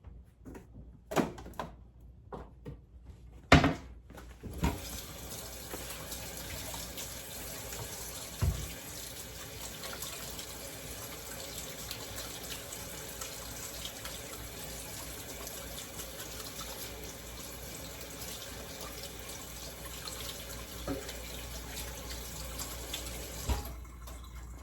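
A few knocks, then a kitchen tap running steadily into the sink for about twenty seconds. It is turned off with a knock near the end.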